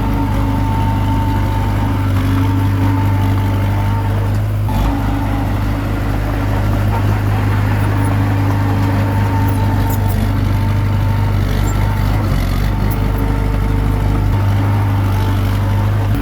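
Komatsu D21P crawler bulldozer's diesel engine running steadily under load while it works, its pitch shifting briefly about five seconds in and again near the end.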